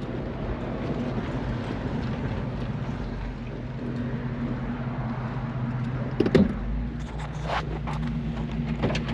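1968 AMC AMX's 390 V8 running steadily while the car cruises, over tyre and road noise. There is a short knock about six seconds in and a fainter one a second later.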